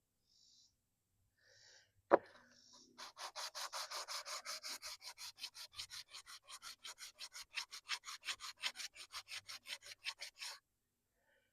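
Sandpaper rubbed back and forth by hand over an outboard water-pump part in fast, even strokes, about six a second, for some seven seconds, preceded by a single sharp knock.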